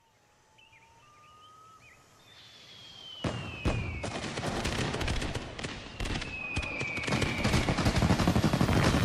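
Fireworks display: faint chirps and whistles early on, then about three seconds in a dense crackle of popping fireworks that keeps building in loudness, with two long falling whistles running over it.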